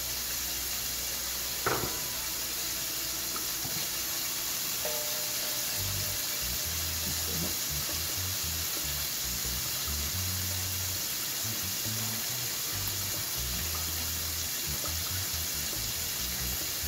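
Chicken legs frying in hot oil in a pot: a steady sizzle, with a single knock about two seconds in.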